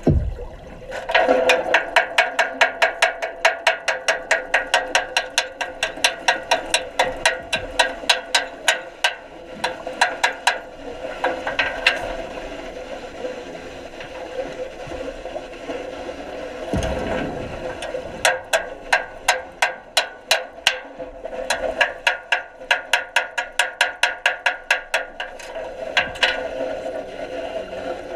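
Underwater wet arc welding heard through the water: runs of sharp, rapid clicks, about four or five a second, lasting several seconds each with short breaks between, over a steady hum.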